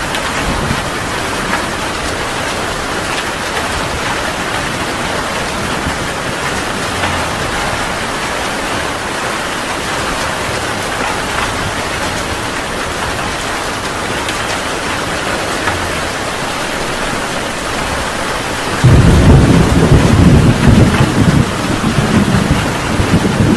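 Steady heavy rain, then about 19 seconds in a sudden loud, deep rumble of thunder breaks in and rolls on in surges under the rain.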